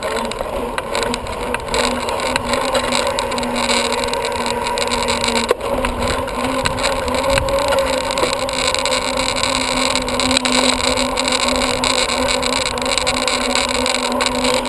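Bicycle in motion: steady rolling and drivetrain noise with a constant low hum and one sharp click about five and a half seconds in.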